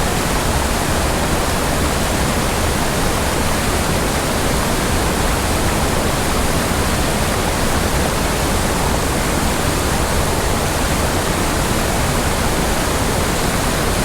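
Waterfall on a steep mountain creek: a loud, steady rush of falling water.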